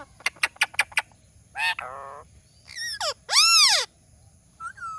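Indian ringneck parrot calling. It gives a quick run of about six short, sharp chirps, then several harsh squawks that rise and fall in pitch. The loudest squawk comes about three and a half seconds in.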